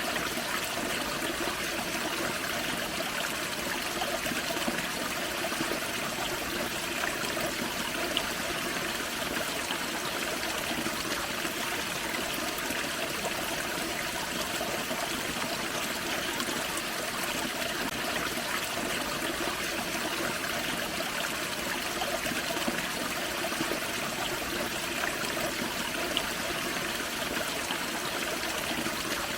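Small forest waterfall on a creek, water splashing and rushing steadily without pause.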